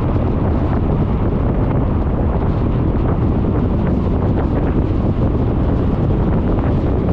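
Steady, loud wind rushing and buffeting over the microphone of a camera mounted on a moving scooter, drowning out the road and engine sound.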